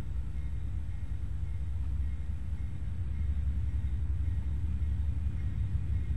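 Steady low rumble of a standing train, growing a little louder near the end.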